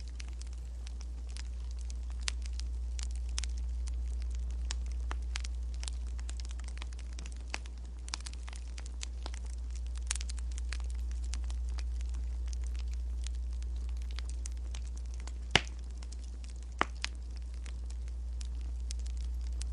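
Wood fire crackling, with irregular sharp pops over a steady low rumble; two louder pops come near the end.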